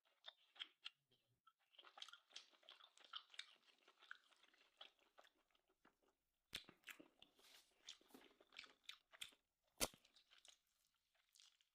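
Close-up mouth sounds of chewing grilled steak: irregular wet crackling and sharp clicks, with one louder click about ten seconds in.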